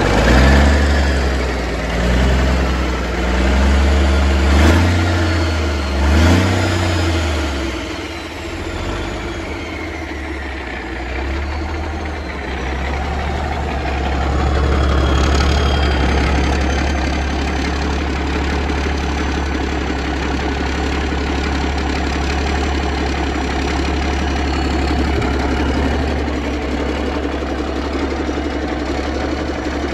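Cummins NTC-300 Big Cam III 855 cubic-inch inline-six turbo diesel running on an engine stand. It is revved up and down several times in the first seven seconds, then settles to a steady idle.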